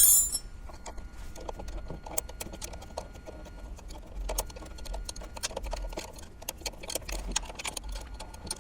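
A sharp metallic clink right at the start, then a ratchet wrench clicking in quick, irregular runs as steel mounting bolts are run in.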